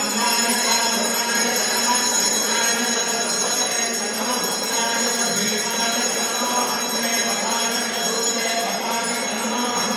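Bells ringing continuously with a steady jingling shimmer, mixed with music, as during a Hindu aarati ritual.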